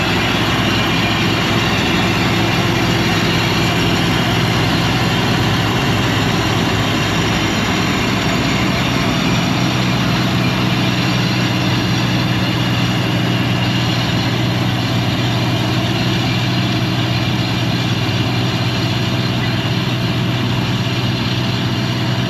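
Combine harvester running steadily at work: a continuous heavy engine hum whose pitch steps slightly higher about nine seconds in.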